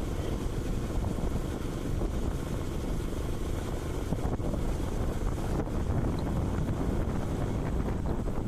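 Steady wind rushing over the microphone of a Karizma motorcycle under way, with low road and engine noise beneath.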